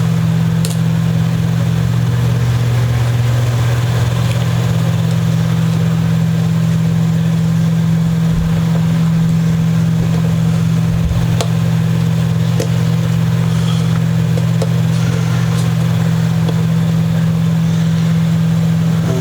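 A steady, loud low hum that does not change, with a few faint clicks and taps over it.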